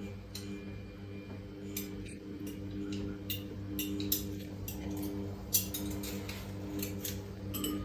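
Samsung WF1700WRW front-loading washing machine running mid-cycle: a steady motor hum that swells and fades, with irregular light clinks scattered through.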